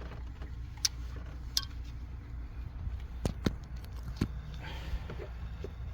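Aerosol can of foam carburetor cleaner and its nozzle tube being handled at a spark plug hole: several sharp clicks and taps, then a short hiss of spray near the end, over a steady low hum.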